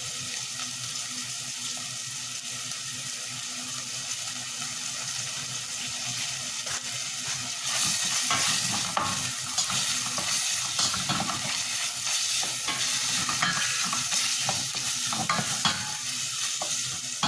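Chicken sizzling in a frying pan, a steady hiss that gets louder about eight seconds in, with scattered knocks and scrapes of a utensil stirring it.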